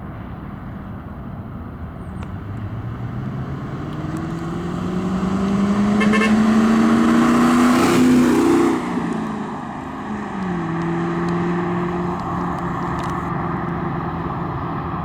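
Ford Mustang GT's 4.6-litre V8 accelerating, its engine note rising steadily for several seconds and loudest about eight seconds in. The pitch then drops suddenly, steps down again a couple of seconds later, and settles into a steady cruise.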